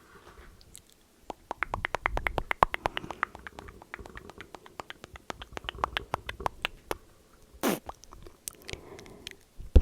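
Close-miked chewing of a crunchy snack: a quick run of crisp crunches lasting several seconds, then easing off.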